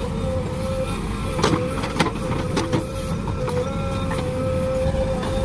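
JCB backhoe loader's diesel engine running steadily, with a held whine over the rumble, and a few sharp knocks about one and a half to two and a half seconds in.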